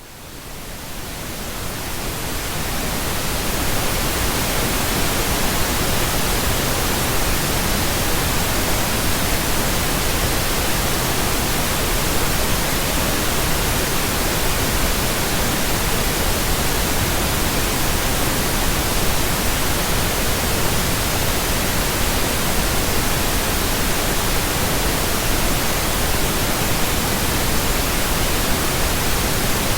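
Synthetic pink noise: a steady, even hiss with no tones or events, fading in over the first three seconds or so and then holding level.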